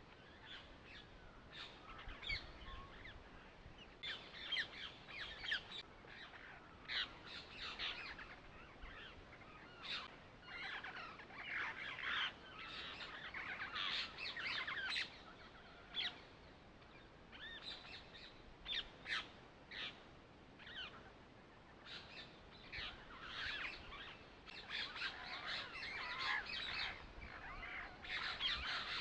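Birds chirping and calling, many short calls coming in clusters every second or two.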